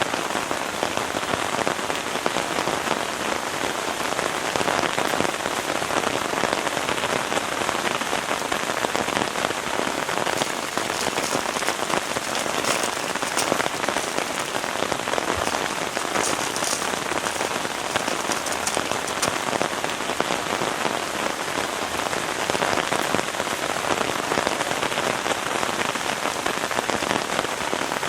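Heavy rain falling steadily on a tent, a dense even hiss of countless drop hits.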